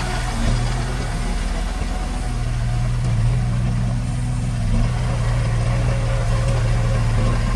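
Diesel engine of a construction machine running steadily at low revs, close to an idle.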